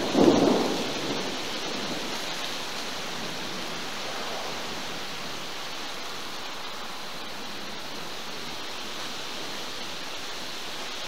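A short, loud rumble of thunder in the first second, fading quickly, then a steady hiss of rain falling as a thunderstorm moves in.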